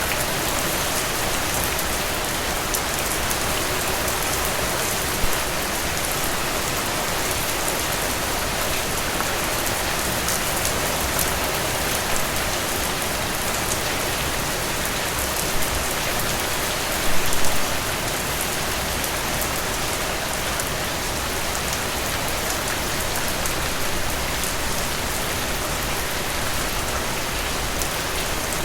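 Steady rain falling, an even hiss with scattered drop taps, plus a few brief louder taps, the loudest a short cluster a little past halfway.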